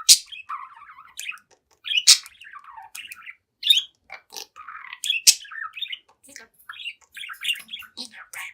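Young budgerigar chattering and warbling, a rapid run of varied chirps, with three loud sharp clicking notes cutting through about the start, two seconds and five seconds in.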